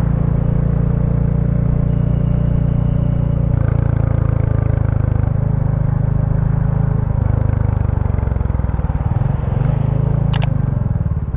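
2023 Royal Enfield Bullet 350's single-cylinder engine running through its stock exhaust on the move, the note changing a few times as the ride goes on. A sharp click sounds near the end.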